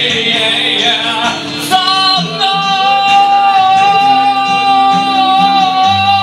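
A voice sings a long held high note over guitar accompaniment. The vocal line wavers for the first second or two, then settles into a single sustained tone to the end.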